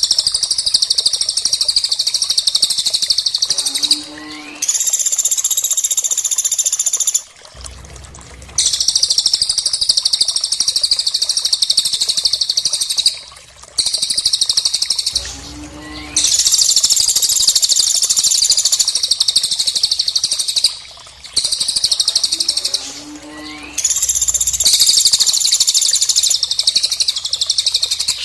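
Recorded calls of cililin and pelatuk (woodpecker), made for tutoring songbirds. They come as long, very rapid, high-pitched trills of a few seconds each, repeated about six times with short breaks. A few of the trills open with low notes and a quick rising whistle.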